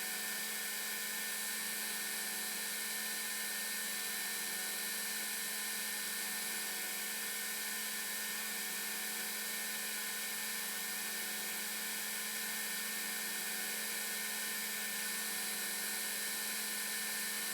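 Steady electrical hum with a faint hiss, unchanging throughout, with no knocks or tool sounds standing out.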